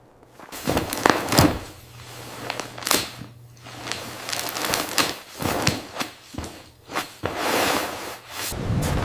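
A run of irregular knocks, clicks and rustling crackles, some sharp, with a faint steady low hum under part of it.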